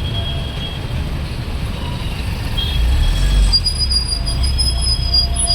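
Road traffic rumbling low, with a sustained high-pitched squeal that grows stronger about halfway through and holds to the end.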